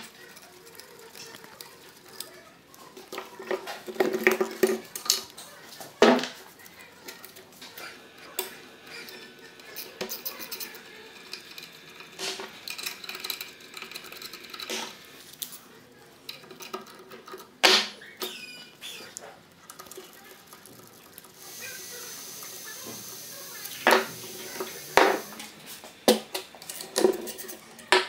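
Metal tools and engine parts clinking and knocking in irregular, scattered strikes while a BMW two-valve flat-twin engine is taken apart. A steady hiss runs for a few seconds toward the end.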